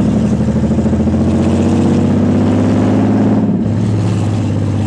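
Nissan 300ZX's naturally aspirated 3.0 V6 (VG30DE) running with no exhaust fitted, under way. Its pitch climbs slowly as it pulls, then drops suddenly about three and a half seconds in.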